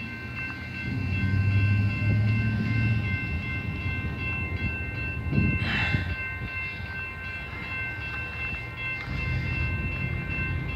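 Freight train rolling past: the low rumble of wheels and railcars, with a steady high squeal held over it.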